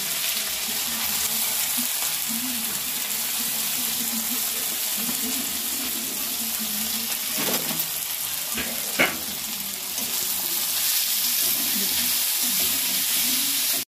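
Grated ginger and garlic sizzling steadily in hot mustard oil in a kadhai, stirred with a spatula, with two sharp knocks of metal around the middle.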